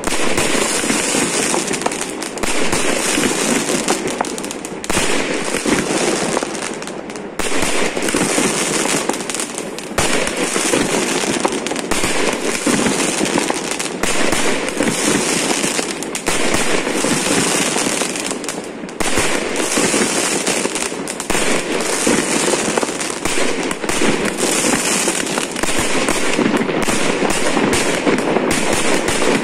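Aerial fireworks bursting overhead in a dense, continuous barrage of overlapping bangs and crackles, loud throughout with no break.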